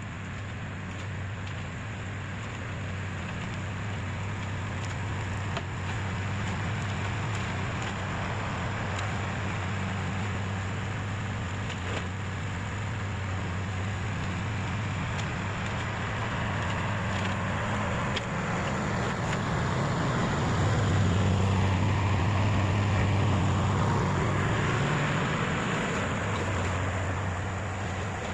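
Tractor's diesel engine running under load while clearing brush from a field, with a steady low hum and engine noise that swells louder about two-thirds of the way through.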